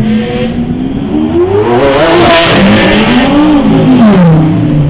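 Lamborghini Aventador's V12 engine revving hard as the car accelerates past. The pitch climbs and falls twice, with a brief loud rush of exhaust noise about two seconds in.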